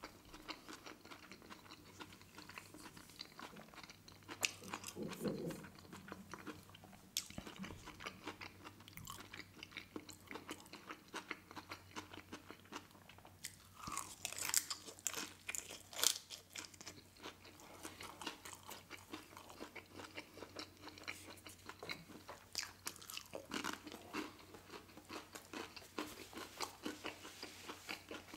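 Close-miked mouth sounds of biting and chewing a crispy fried dumpling: a run of small crunches and crackles, loudest in a cluster about halfway through.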